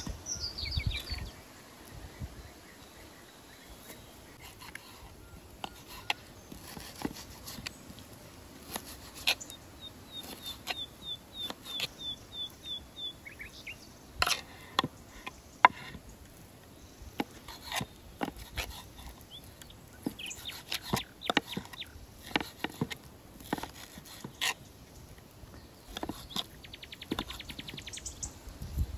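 Wild birds calling: a few short chirps at the start and a quick repeated chirping phrase about ten seconds in. Scattered sharp clicks and knocks run throughout, the loudest about sixteen seconds in.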